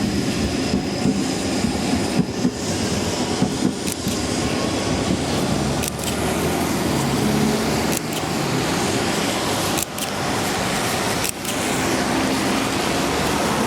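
Steady motor-vehicle traffic noise, a continuous hiss with a few brief breaks.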